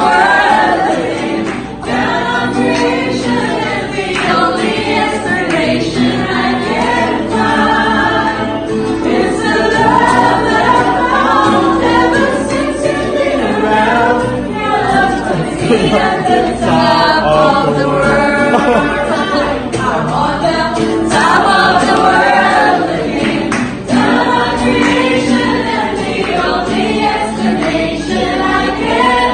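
Choir singing with musical accompaniment, a gospel-style song.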